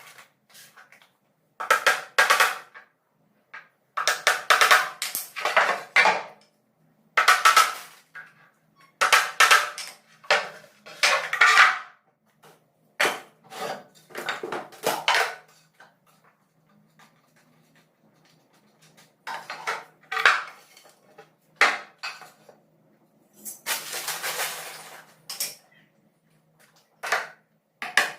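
Repeated bursts of woodworking tool noise on wood, each lasting about a second, with short silent pauses between them.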